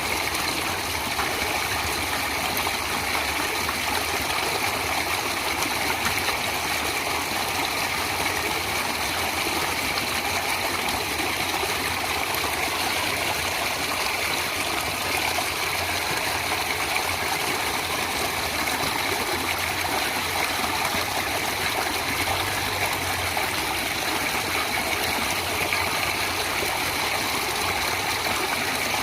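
Water of a natural stream flowing steadily, with no breaks or changes.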